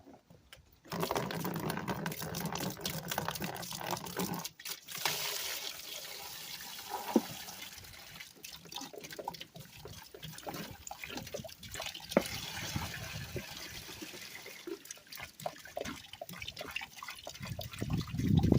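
Muriatic acid being poured from a jug into a plastic bin, starting about a second in and running on as a steady liquid pour.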